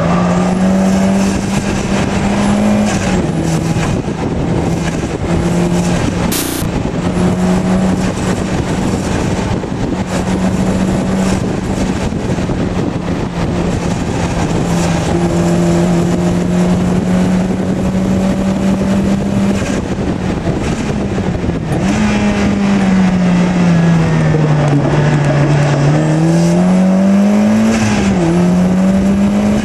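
Turbocharged Mazda MX-5 Miata (NB) 1.8-litre four-cylinder engine heard from inside the car at speed, holding high revs at a steady note. The pitch dips briefly a few seconds in, then near the end falls away for several seconds and climbs back up.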